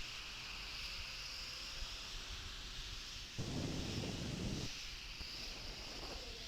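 Wind buffeting an outdoor microphone over a steady hiss, with one low rumbling gust about halfway through that lasts just over a second.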